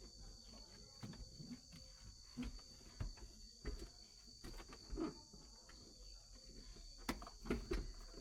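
Steady high-pitched drone of insects, with scattered light knocks and clicks.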